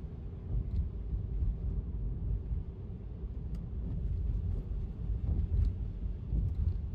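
Steady low road rumble of a Tesla electric car driving on rain-wet pavement, with a few faint ticks scattered through.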